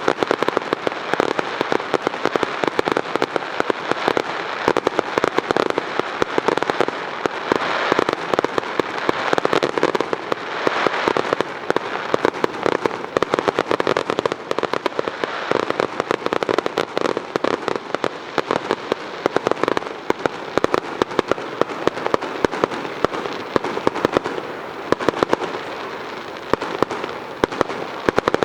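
Aerial fireworks display: a dense, unbroken crackle of many small bursts and pops going off in rapid succession.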